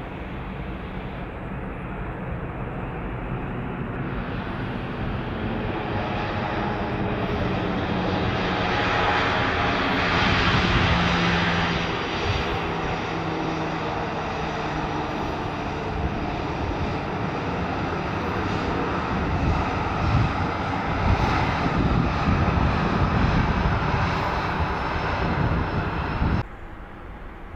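Airbus A319 jet engines, loud, with a steady roar that builds to a peak about ten seconds in and stays loud with a heavy low rumble. The sound cuts off suddenly near the end.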